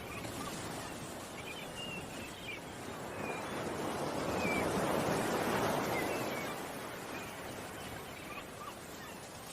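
Ocean waves, one wave swelling and washing in about halfway through and then ebbing, with birds chirping now and then over it.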